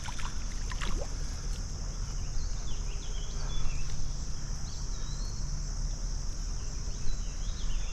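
Steady, high-pitched drone of insects buzzing without a break, over a low rumble, with a few faint short chirps about three seconds in and near the end.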